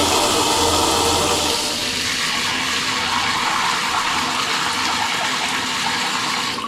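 Water rushing hard from an open tap at full pressure, a steady loud gush that stops abruptly at the end.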